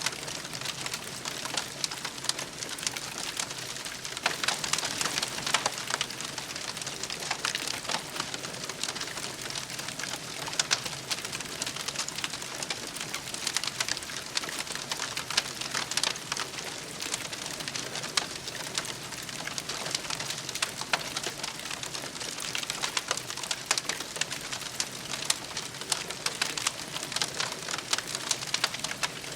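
Wood campfire burning, with dense steady crackling and frequent sharp pops over a soft hiss.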